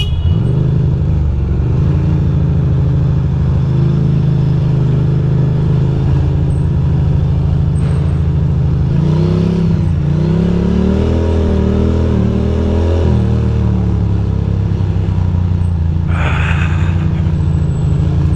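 Ducati Monster's V-twin engine running at low speed in traffic, its revs rising and falling a few times about halfway through. A short hiss comes about two seconds before the end.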